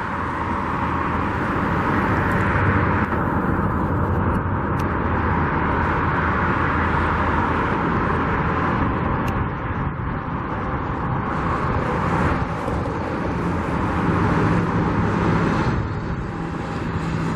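Steady road traffic noise: a continuous wash of cars running along a nearby street, with no sudden events standing out.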